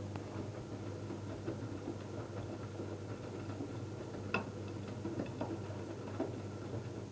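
Electrolux front-loading washing machine running, with a steady low hum and irregular light knocks and clicks from the turning drum; one sharper click about four seconds in.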